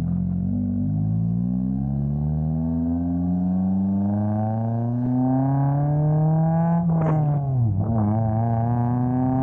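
2000 Honda Civic's D-series four-cylinder engine pulling under acceleration, its pitch rising steadily through a gear. About seven seconds in the revs drop sharply at an upshift, then climb again in the next gear.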